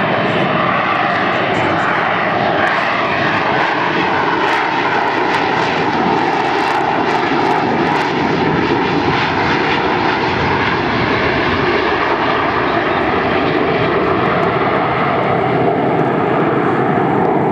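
Harrier jump jet's Rolls-Royce Pegasus turbofan running loud and steady, its pitch drifting slowly up and down.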